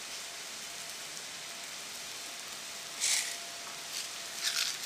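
Onions, peppers and garlic sizzling steadily in oil in a hot stainless-steel pan, with a brief louder hiss about three seconds in as torn curry leaves (carapuli) hit the oil.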